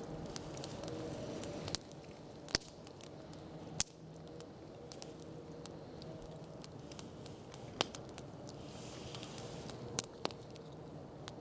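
Wood campfire crackling, with a handful of sharp pops and snaps over a low steady hiss of burning.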